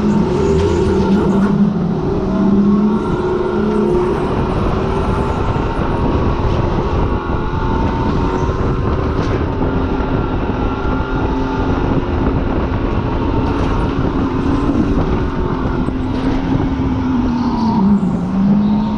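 Supercharged car's engine pulling hard on a track lap, with heavy road and wind noise; the engine note wavers up and down and drops sharply about 18 seconds in before climbing again.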